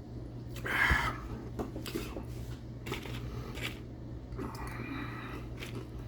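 Rustling and handling noise with a few light clicks and taps, loudest about a second in and again near the end, over a steady low hum.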